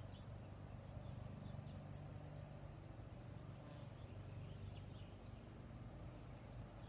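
A bird repeating a short, high chirp about every second and a half, faintly, over a low steady hum.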